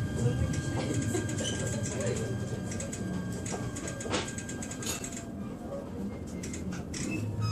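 Cabin sound of an E129-series electric train: a steady low rumble and hum with a thin high whine that fades out about five seconds in, and a few clicks and knocks, the sharpest about four seconds in.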